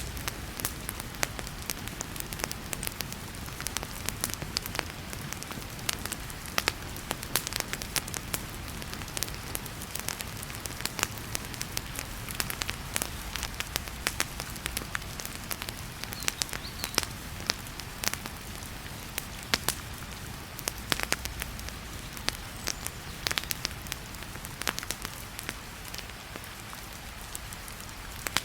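Wood fire crackling in a fireplace, with frequent irregular sharp pops, over the steady hiss of heavy rain.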